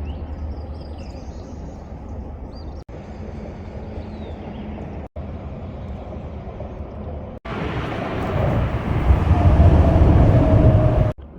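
Steady low rumble of wind on the microphone with faint bird chirps, in several short clips split by abrupt cuts; in the last few seconds a much louder rushing sound takes over, then cuts off suddenly.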